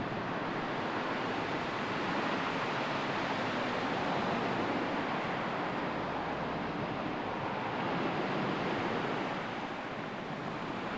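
Sea waves breaking and washing on the shore: a continuous hiss of surf that swells and eases gently, dipping a little near the end.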